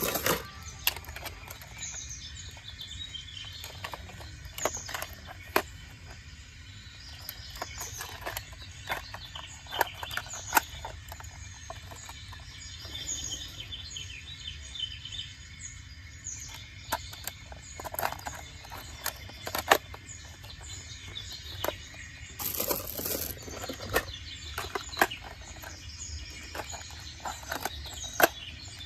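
Outdoor background with small birds chirping over a steady low rumble, broken by scattered sharp clicks and knocks.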